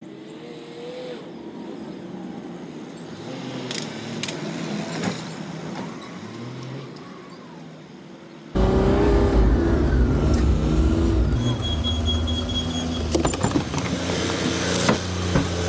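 Diesel engine of a rear-loader garbage truck running. It is moderate at first, then abruptly much louder about halfway through, with a few sharp knocks.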